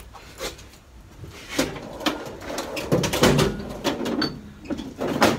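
Scattered knocks and clinks of metal tools and parts being handled on a workbench, with a sharp knock near the end.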